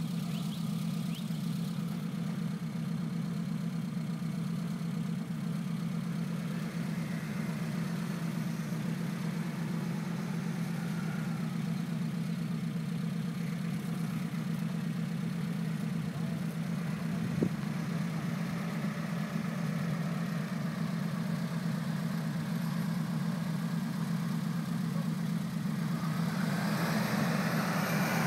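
Suzuki Sierra's four-cylinder engine running steadily at near-idle as it crawls down a steep slope in low range on 4.16 reduction gears. A single sharp knock comes about two-thirds of the way through. The engine grows louder near the end as the vehicle comes close.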